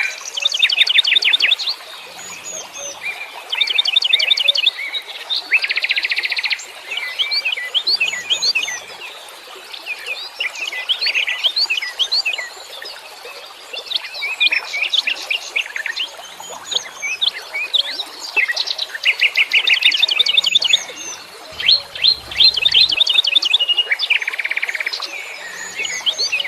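Wild songbirds chirping and singing, with bursts of fast trilled notes recurring every two seconds or so and other chirps and whistles overlapping between them.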